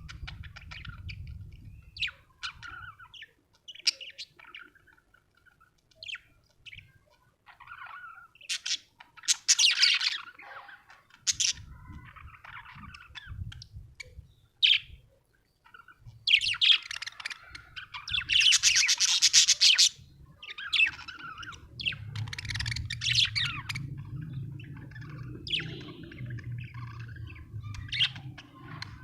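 Budgerigar chirping: short sharp chirps scattered throughout, with longer bursts of rapid warbling chatter about nine seconds in and again from about sixteen seconds to twenty-four seconds.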